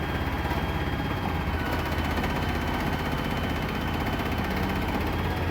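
Worn-out 350 V8 engine of a 1978 Chevrolet C60 bucket truck running steadily at idle, with a faint steady high whine above the rumble.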